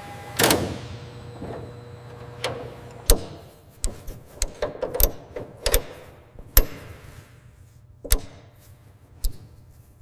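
A short burst from a pneumatic impact gun tightening a fastener about half a second in, followed by scattered sharp metallic clicks and knocks of parts and tools being worked.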